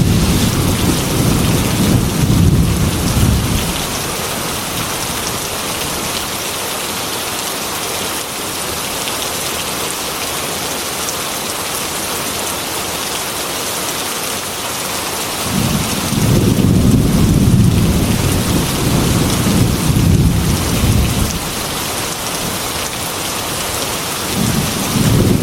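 Heavy rain beating steadily on a glass window, with rolls of thunder: one rumbling through the first few seconds, a longer one in the second half, and another starting near the end.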